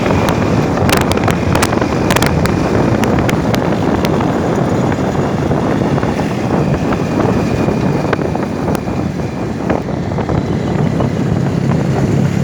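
Motorcycle engine running, with heavy wind noise on the microphone. A quick run of sharp clicks comes in the first few seconds.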